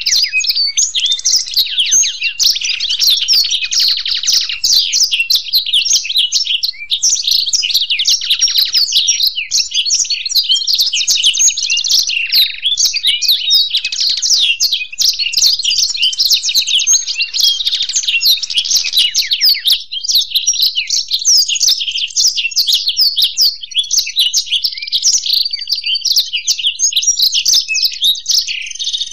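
Black-throated canary and European goldfinch singing together in a continuous, rapid stream of twittering notes and fast trills with no pauses.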